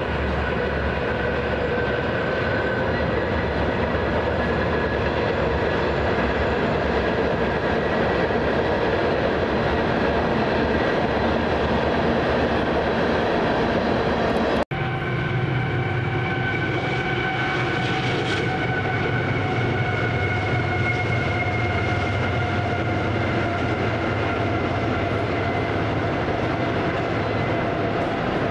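Train running past steadily, a continuous rumble of rails and wheels. It breaks off suddenly about halfway through and picks up again, now with a few steady high tones over the rumble.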